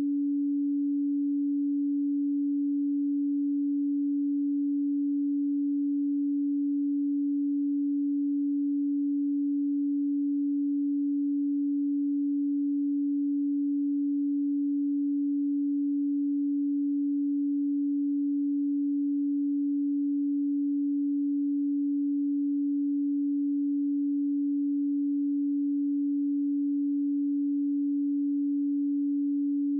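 A pure 285 Hz sine tone held steady at one pitch and level.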